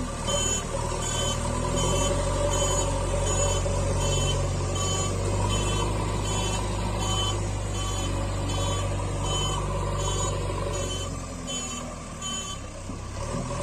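Toy vehicle's electronic reversing beep, repeating about every three-quarters of a second over a steady engine-like hum. The beeping stops near the end.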